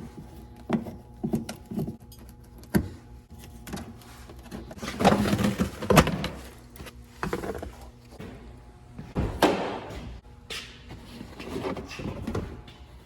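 Hand tools and car parts being handled during repair work: a string of sharp metallic clicks and knocks, with louder clattering about five to six seconds in and again near nine and a half seconds, over a faint steady hum.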